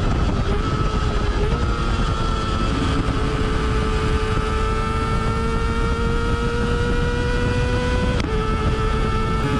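Kawasaki ZX25R's 250 cc inline-four with a Yoshimura R77 exhaust running at high revs while riding, its note climbing slowly. About 8 seconds in there is a brief break and a slight drop in pitch, like a gear change. Low wind rush lies under it.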